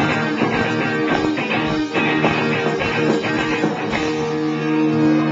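Live rock band playing, led by strummed electric guitar; about four seconds in, the rhythmic strumming gives way to a held chord.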